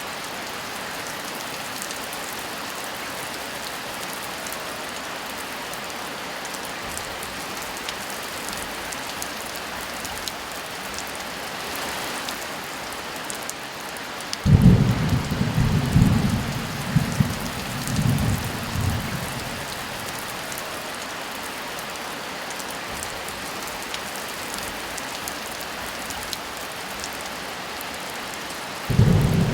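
Steady heavy rain falling throughout. About halfway through, a roll of thunder rumbles low and loud in several swells for around five seconds, and another thunder roll begins just before the end.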